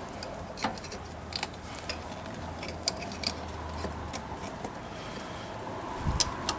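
Scattered small metallic clicks and taps of a spark plug wrench and plug cap being worked as a small generator engine's spark plug is tightened and its wire reconnected, with a pair of sharper clicks near the end.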